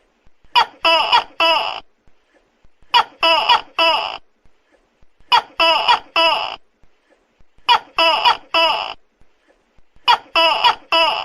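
Tokay gecko calling loudly: each group is a short note followed by two longer calls. The groups repeat evenly about every two and a half seconds, five times.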